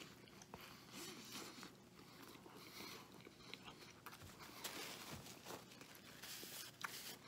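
Faint chewing of a Wendy's Triple Baconator burger, with a bite at the start and a few small clicks.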